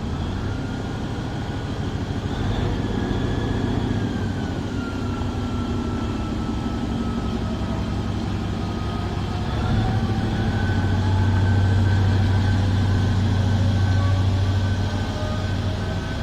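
Train running through a station: a steady low rumble that grows louder about ten seconds in, with thin whining tones gliding slowly up and down above it.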